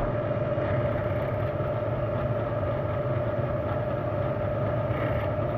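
Machine-tool spindle running steadily at low speed with a drill bit in its chuck: an even motor hum with a steady tone.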